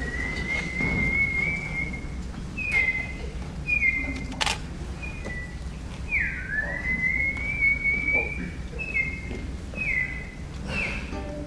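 Whistled canary call: two long notes that dip and then slide slowly upward, each followed by a few short falling chirps. A sharp click sounds about four and a half seconds in.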